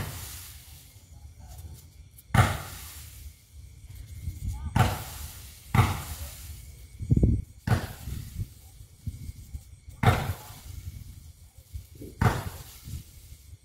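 Ground-launched fireworks firing a volley of shots: about eight sharp bangs spaced one to two and a half seconds apart, each fading out over a second or so.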